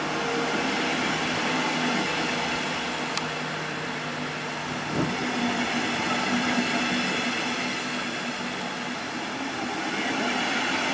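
Regional train of double-deck passenger coaches rolling slowly past: a steady rumble of wheels on rails, with a low steady hum underneath.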